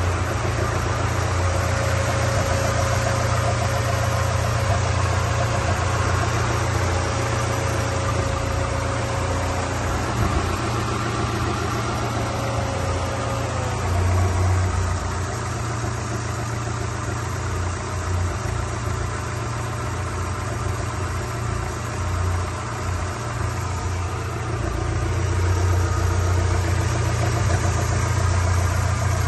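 1995 Land Rover Defender 90 engine idling steadily. A thin whine sits over it through the first half, dips slightly and stops about halfway.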